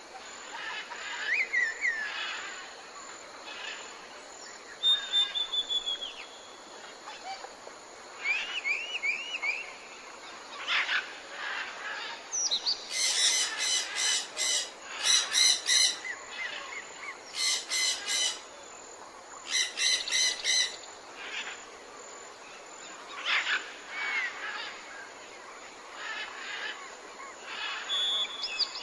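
Several wild birds calling over a steady background hiss: scattered short chirps and quick up-slurred whistles, a short falling trill, and through the middle a run of harsh, rapid rattling calls repeated in bursts.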